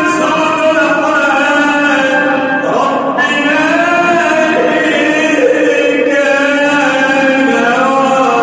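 Male Quran reciter chanting in the ornamented mujawwad (tajweed) style, holding long melismatic notes that slide up and down in pitch.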